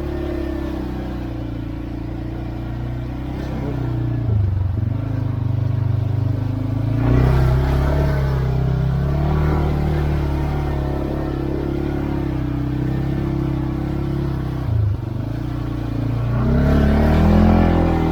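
CFMoto CForce 520L ATV's single-cylinder engine running under way. The throttle eases off briefly about four seconds in and again near the end, and the engine picks up speed again around seven seconds in and shortly before the end.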